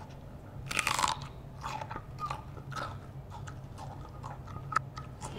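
A person chewing and biting crunchy food loudly and deliberately. There is a big burst of crunching about a second in, then irregular smaller crunches.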